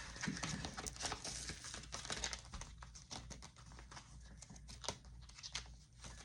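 Paper banknotes and savings-challenge papers being handled: soft, irregular rustling and crinkling with small clicks.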